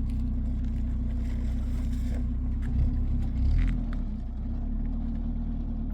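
An engine running steadily with a low hum, with two louder low surges about three and three and a half seconds in.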